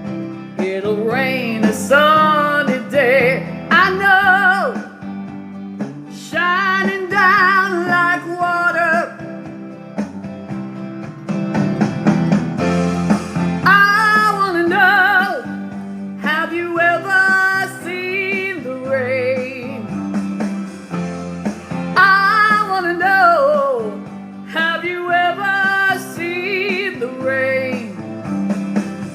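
A song sung with guitar accompaniment: the voice holds long notes with a wavering vibrato over steady guitar chords.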